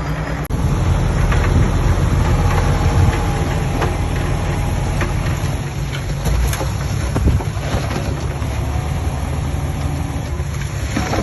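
Heavy diesel earthmoving machinery running with a low rumble and scattered metallic clanks and squeaks.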